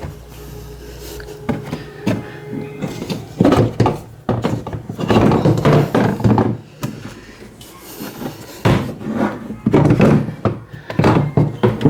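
Irregular knocks, thunks and clatter of washing-machine parts and tools being handled and fitted during a gear and impeller repair.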